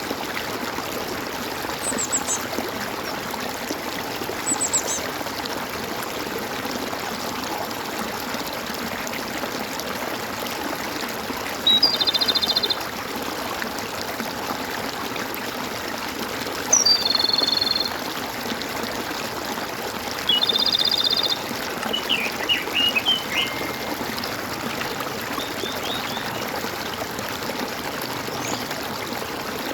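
Water gurgling steadily in a stream, with birds calling over it: a few short high chirps in the first five seconds, then three buzzy calls of about a second each in the middle, followed by a quick run of chirps.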